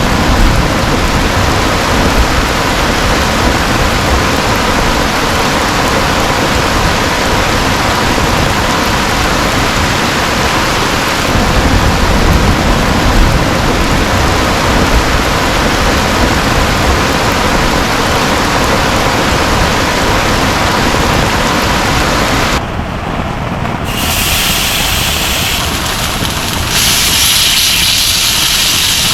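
Heavy rain falling steadily, a dense hiss with a deep rumble underneath. About three-quarters of the way through, the sound changes abruptly to a lighter, higher rain patter without the rumble.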